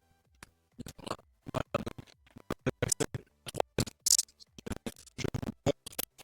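Irregular run of short clicks, knocks and scrapes, as of hard objects being handled and set down.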